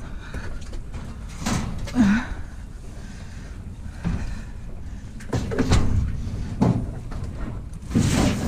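A heavy scrap stove being manhandled into a vehicle: a series of irregular clunks and knocks of metal against metal.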